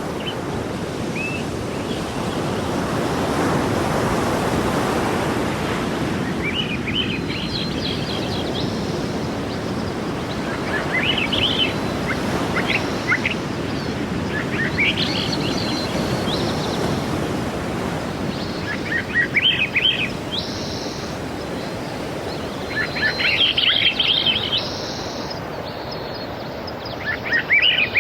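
Sea waves washing in, a steady rushing that swells and ebbs. Small birds chirp in short bursts every few seconds, starting about a quarter of the way in.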